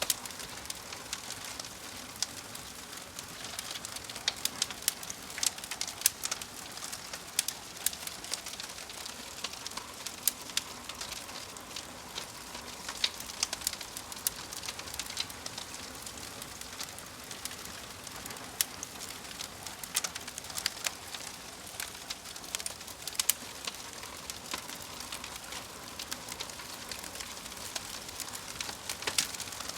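Wood fire crackling: a steady soft hiss with frequent sharp pops and snaps at irregular moments.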